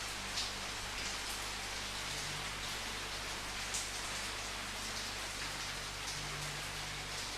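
Steady rain falling, an even hiss of many drops, with a few single drops standing out, most clearly about half a second in and again near four seconds.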